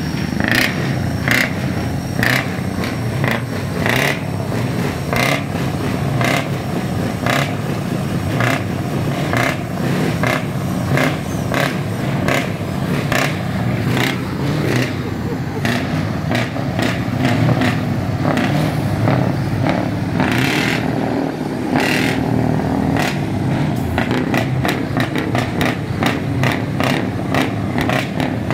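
Scania truck diesel engine running with a steady low rumble, overlaid by sharp ticks about twice a second for the first ten seconds or so, more scattered after that.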